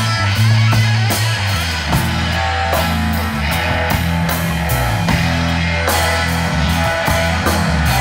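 A live blues band playing electric guitar over a bass line and drum kit.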